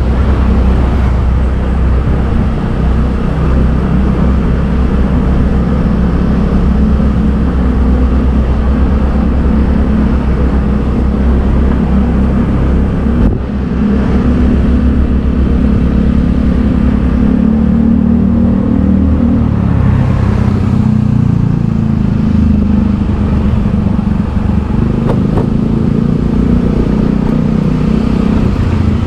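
Motorbike engine running steadily while riding in traffic, with road noise. The engine note shifts around twenty seconds in.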